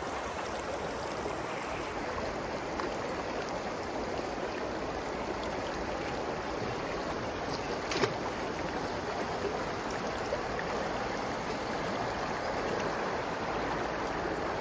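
Flowing water of a stream rushing steadily, with a single short click about eight seconds in.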